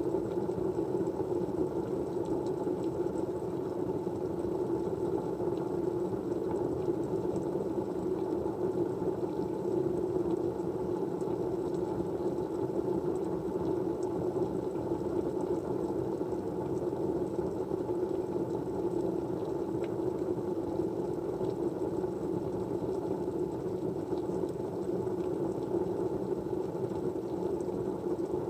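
Steady white-noise ambience, a low, even rushing hiss with no speech, with a few faint light ticks scattered through it.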